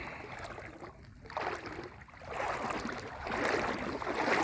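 Legs wading through floodwater, a swishing splash of water with each step.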